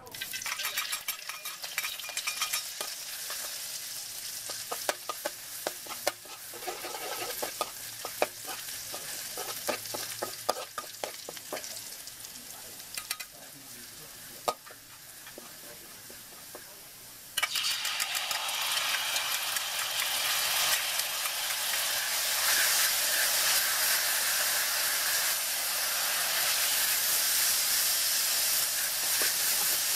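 Minced garlic sizzling in hot oil in an aluminium wok, stirred with a metal spatula that clicks and scrapes against the pan. A little past halfway the sizzle suddenly becomes louder and fuller and stays that way.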